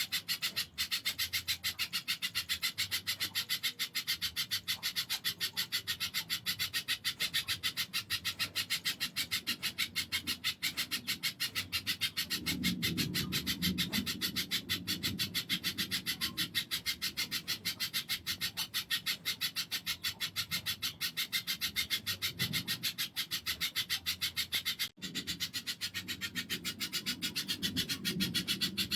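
Spiderhunter (pijantung) chattering: a fast, unbroken series of sharp, high-pitched notes at about ten a second, with a faint low rumble now and then.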